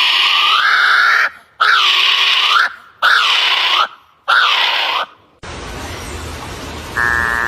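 A bird giving four loud calls in a row, each about a second long and bending upward in pitch at its end. After the fourth the calls stop and a steady hiss takes over, with a slightly falling tone coming in near the end.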